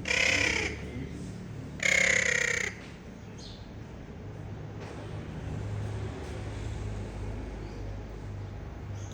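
A parrot giving two loud, harsh screeches about a second and a half apart, over a steady low hum.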